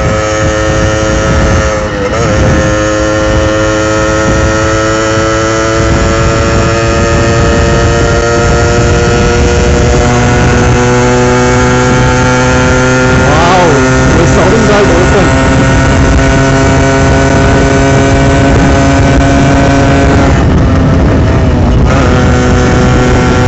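Yamaha RX100's small two-stroke single-cylinder engine pulling hard at highway speed, its pitch climbing slowly as the bike gathers speed, with a short dip about two seconds in and a brief let-off near the end. Wind rushes over the microphone throughout.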